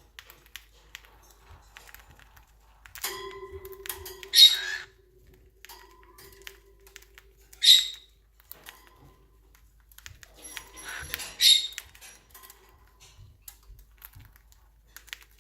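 Pet birds squawking: three short, harsh, high-pitched calls a few seconds apart, with faint clicking in between.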